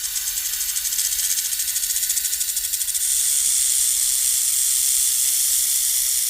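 Snake hissing: a fast, pulsing hiss for about three seconds, then one long steady hiss.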